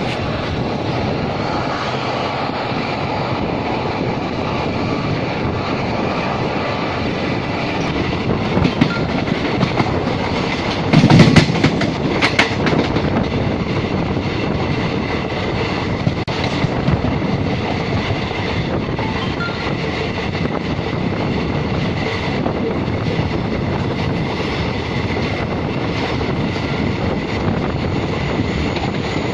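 Indian Railways ICF passenger coaches running at speed, heard from on board: a steady rumble with the clickety-clack of wheels over rail joints. A louder clatter comes about eleven seconds in.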